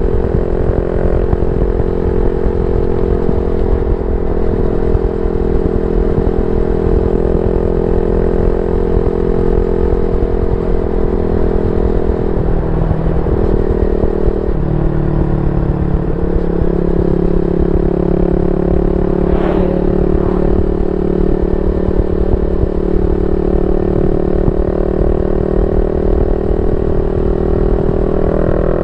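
Yamaha Y15ZR's 150cc single-cylinder four-stroke engine running steadily through a YYPANG SD3 aftermarket exhaust. The engine note drops slightly for a few seconds near the middle, then returns to its earlier pitch.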